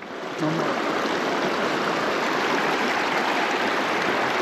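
Small mountain creek running, a steady rush of flowing water that comes up to full level about half a second in.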